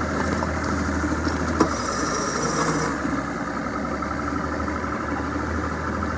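Boat motor running steadily while the boat cruises.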